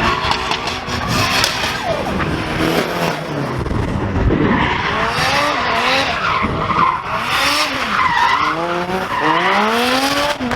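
Drift cars sliding with tyres skidding while their engines rev up and down again and again, the revving most marked in the second half.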